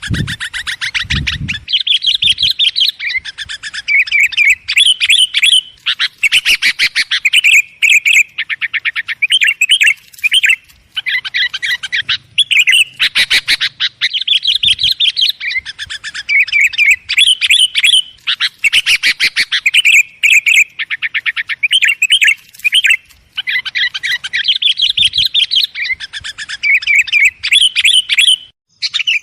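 Sooty-headed bulbuls calling busily, a rapid, unbroken run of sharp chirps and short chattering phrases with only brief pauses.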